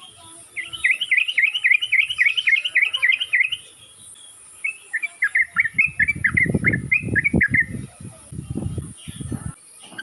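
Yellow-vented bulbul (trucukan) singing: two fast runs of repeated, bubbly chirping notes, about five or six a second, the lure song used to set other bulbuls calling. The second run is joined by loud low thumps and rumbling for several seconds.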